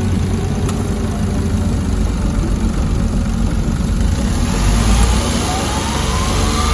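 Daihatsu Hijet S321's 660 cc three-cylinder engine running steadily, with a rising whine over the last two seconds.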